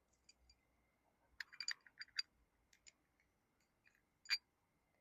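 Faint, scattered clicks of small hydraulic control-valve parts being handled during reassembly. There is a quick cluster of clicks about a second and a half in, and one sharper, louder click near the end.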